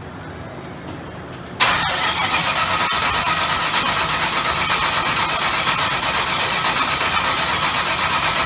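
Chevrolet Nova's starter cranking the engine with an even, fast pulsing. It starts abruptly about a second and a half in and runs for about seven seconds without the engine catching.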